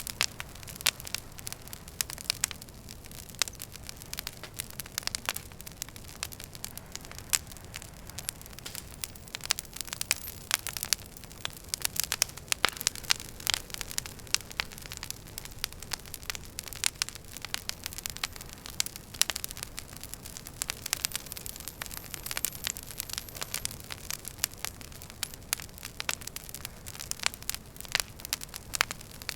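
Wood fire burning in a fireplace, with a steady stream of irregular sharp crackles and pops over a low rumble of the flames.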